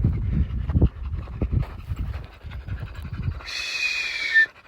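Dogs panting hard and fast after a hot uphill hike without water. Near the end there is a brief high whistling sound, falling slightly in pitch.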